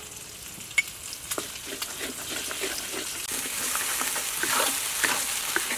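Food sizzling and frying in a hot wok while a wooden spatula stirs and scrapes it, with a few light clicks; the sizzle grows louder about halfway through.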